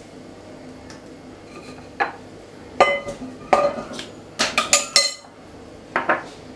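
Metal kitchen utensils clinking against pots or bowls: a run of sharp clinks with short ringing, starting about two seconds in, with a quick cluster near the middle.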